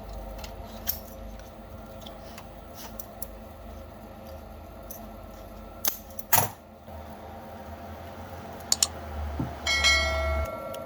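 Small metal parts and tools clinking and tapping, a few sharp knocks spread out, with a low steady hum underneath. A brief metallic ringing tone comes near the end.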